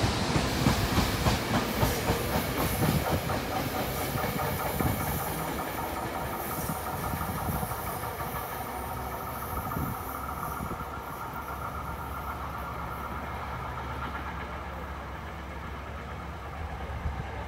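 Electric commuter train pulling away along the track, its wheels clattering over the rails loudest in the first few seconds. The sound fades as the train moves off, leaving a steady low hum and hiss.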